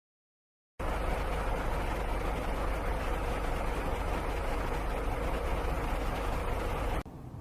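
Steady vehicle engine and road rumble, heavy in the low end, starting just under a second in after a moment of silence and cutting off abruptly near the end.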